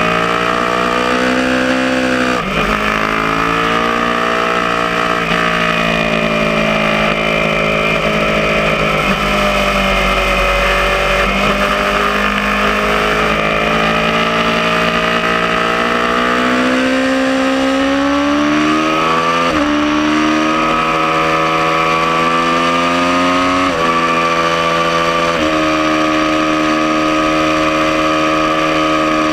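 Aprilia Tuono motorcycle engine at speed on a race track, its pitch rising and falling through corners. In the second half the revs climb steadily twice and drop sharply each time as the rider upshifts.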